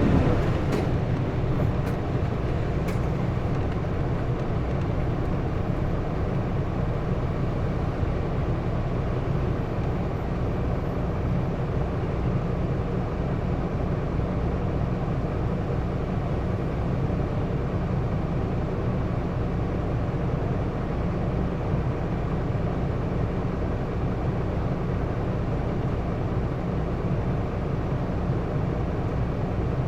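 Steady engine and road noise inside a Hino Blue Ribbon II city bus cruising at an even speed, with a low rumble and a few faint rattle clicks in the first few seconds.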